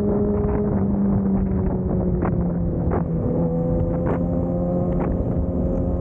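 Motorcycle engine running at a steady cruise, its pitch drifting slowly, with wind noise on the microphone and a few short sharp clicks or knocks.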